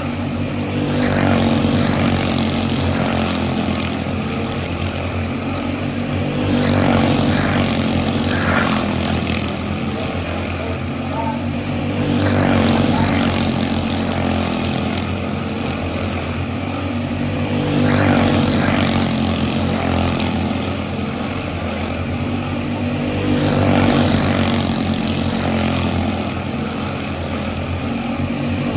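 Small racing go-kart engines running at speed, a steady buzzing drone that swells and fades about every five and a half seconds, in step with the laps of a short oval.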